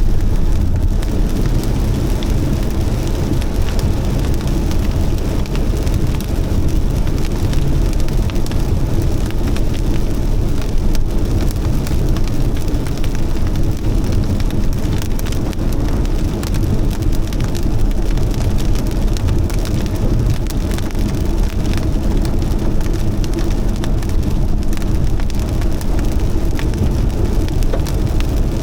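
Heavy rain falling steadily: a dense patter of individual drops over a deep, even rush.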